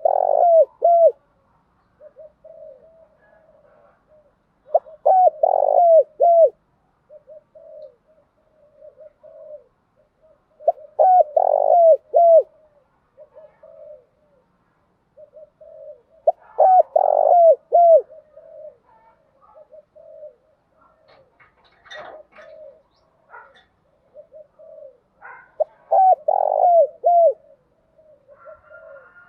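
Spotted dove cooing: five loud cooing phrases, one every five or six seconds, with softer low coos between them. A few faint clicks come about two-thirds of the way through.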